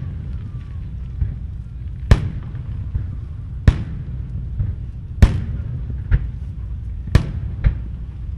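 Aerial firework shells bursting overhead: four loud bangs about one and a half to two seconds apart, with smaller pops between them, over a steady low rumble.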